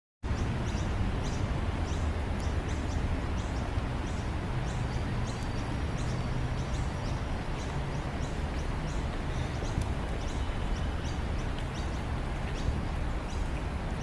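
Small birds chirping: many short, high, falling notes repeated through, over a steady low rumble of outdoor background noise.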